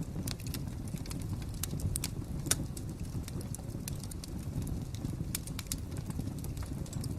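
Wood fire crackling: irregular sharp pops and snaps over a low steady rumble, with one louder pop about two and a half seconds in.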